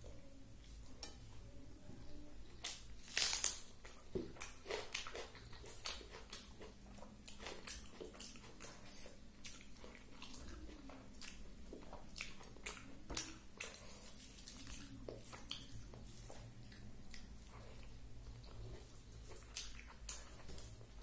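Close-up chewing and wet mouth clicks of someone eating rice and vegetables by hand, with soft taps of fingers against the plate as the rice is mixed. The clicks come irregularly, with the loudest about three seconds in, over a faint steady low hum.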